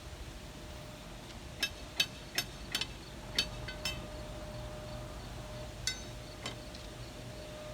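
Several sharp clicks and clinks, irregularly spaced, over a steady low hum.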